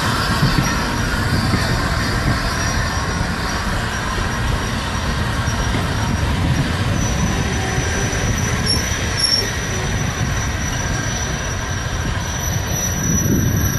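Train running on the rails: a steady rumble with a thin, high wheel squeal that grows clearer about halfway through.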